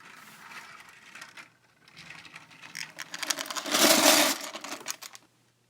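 Clattering of small hard objects: a dense run of rapid clicks that builds to its loudest around four seconds in and dies away about a second later.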